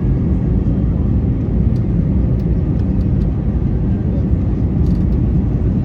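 Steady low rumble of a jet airliner's engines and airflow, with a few faint clicks.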